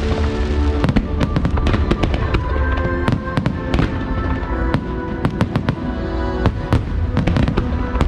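Aerial fireworks going off in quick succession, many sharp bangs and crackles, over the show's music playing loudly.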